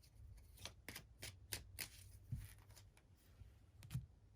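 A deck of oracle cards being shuffled by hand: faint, irregular flicks and snaps of the cards, with a couple of soft thumps as the deck is handled.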